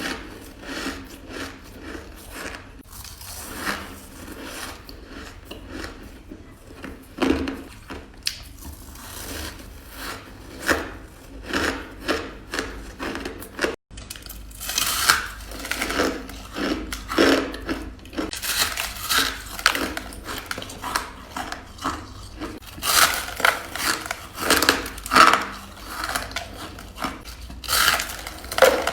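Ice being bitten and crunched between a woman's teeth: a long run of irregular sharp crunches, with a momentary cut near the middle and denser, louder crunching after it.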